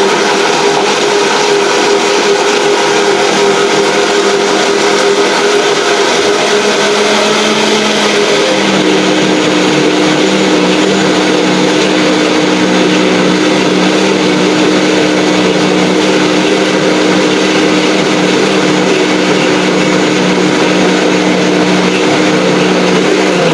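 An electric kitchen appliance's motor running steadily, beating eggs, sugar and margarine for cake batter. Its pitch drops slightly about eight seconds in, as if under more load, and it switches off at the very end.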